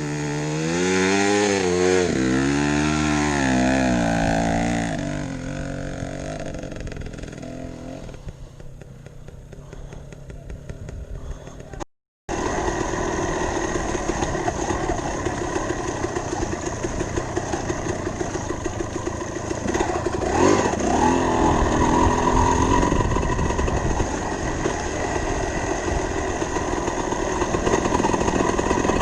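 Dirt bike engine revving, its pitch rising and falling repeatedly, then fading away. After a brief cut about twelve seconds in, a dirt bike engine runs steadily at speed, with a few shifts in pitch about twenty seconds in.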